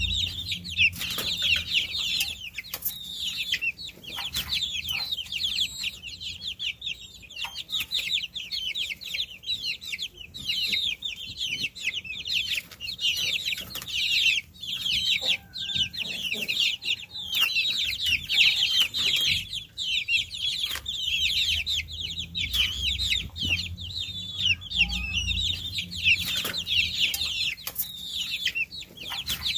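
A brood of baby chicks peeping: many high, short chirps overlapping in a dense, continuous chorus.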